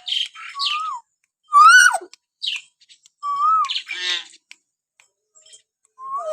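Hill myna giving a string of calls: clear whistles that swoop up and down, alternating with harsh, raspy chatters, with short pauses between. The loudest is a whistle about a second and a half in that rises and then drops; another falling whistle comes near the end.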